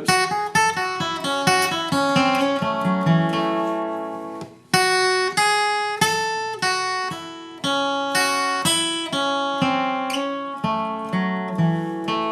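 Acoustic guitar flatpicked, playing a bluegrass lead line of quick single notes with a few held notes; the run breaks off briefly a little under five seconds in and then resumes.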